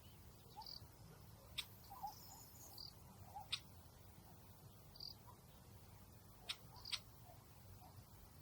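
Faint outdoor nature ambience: a soft steady hiss with four sharp clicks spread through it and a few brief, quiet chirps.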